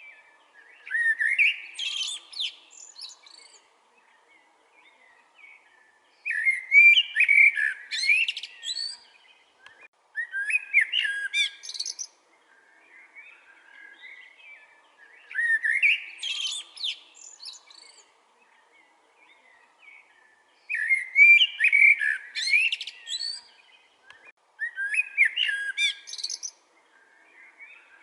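Common blackbird singing: six song phrases a few seconds apart, each a run of whistled notes with high twittering, with softer notes in the gaps between them.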